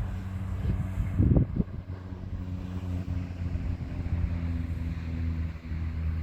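A train passing: a steady low running noise, with a brief louder surge about a second in.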